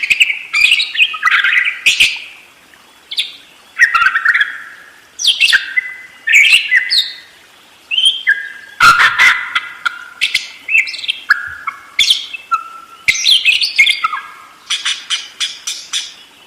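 Budgerigar chattering and warbling in bursts of rapid chirps, one burst every second or so. Near the end a fast, even pulsing of about five strokes a second starts up.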